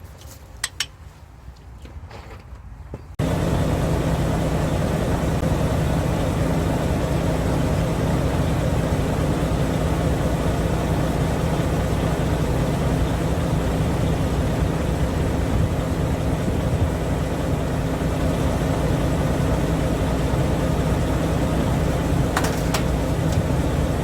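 A few light clicks, then about three seconds in a heavy machine or engine starts running abruptly and keeps a steady, loud, low rumble with no change in pitch.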